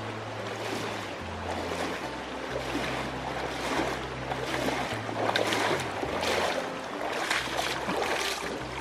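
Rushing water of a rainforest creek and small waterfall, louder in surges in the second half, under background music with a slow, low bass line.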